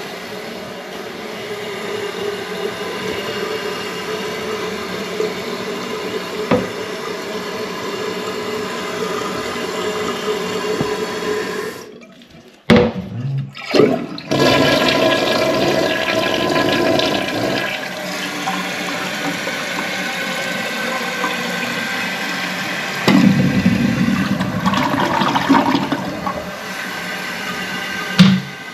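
Toilet tank with a newly fitted flapper refilling, then flushing, with water hissing and rushing. The sound breaks off for a moment about twelve seconds in, and there is a sharp click near the end.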